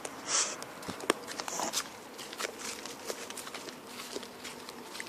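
Footsteps on an outdoor path, irregular scuffs and crunches with a couple of short rustling swishes, as someone walks along while filming.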